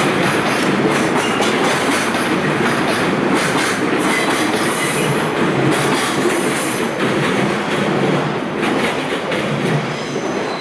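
Container freight train's wagons rolling past at low speed, wheels clattering over rail joints with a few brief wheel squeals, the noise easing off near the end.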